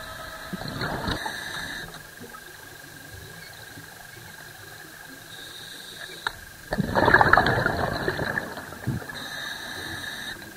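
Underwater, a scuba diver's regulator venting exhaled bubbles: a short burst about a second in and a longer, louder gush of bubbles about seven seconds in, over a faint steady whine.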